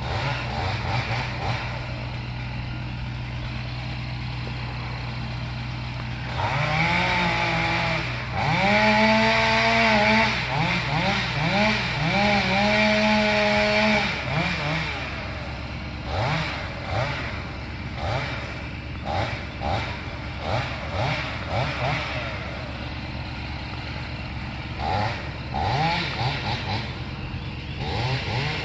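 Two-stroke chainsaw cutting into the trunk of a dead gum tree. From about six seconds in it runs at full throttle for around eight seconds, its pitch dipping and recovering as the chain bites into the wood. It then drops back to idle with short throttle blips, over a steady engine hum.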